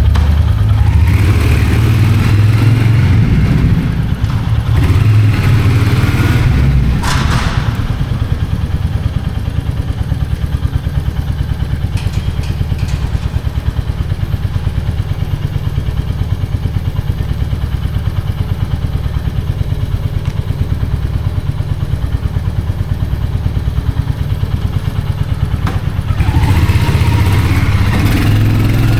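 Royal Enfield Hunter 350's single-cylinder engine and exhaust: accelerating hard for the first several seconds, then settling to a steady, evenly pulsing low-rev thump for most of the time, and revving up again near the end.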